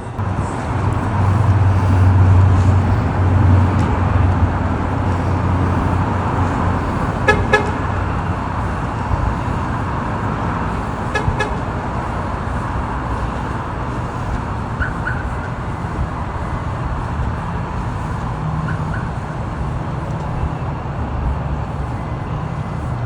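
Steady rumble of vehicle noise, loudest in the first few seconds, with a few short high chirps or toots scattered through it.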